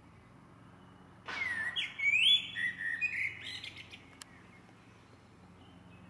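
A songbird sings one loud phrase of about three seconds, starting about a second in: clear whistled notes that glide and step up and down in pitch, ending in a quick rattle. Fainter bird calls and a low steady hum sit underneath.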